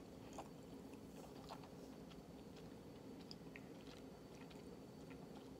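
Faint chewing of a mouthful of noodles: soft, scattered mouth clicks over quiet room hum.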